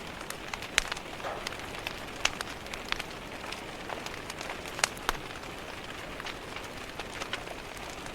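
Steady rain hiss mixed with a wood fire crackling: sharp pops come at irregular moments, two of them louder than the rest.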